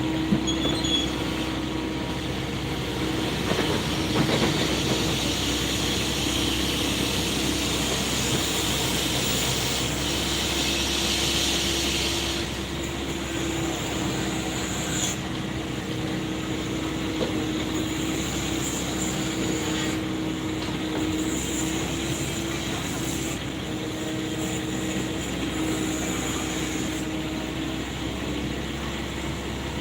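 Excavator running steadily, its engine humming under a steady whine; a hiss rises a few seconds in and stops about halfway through.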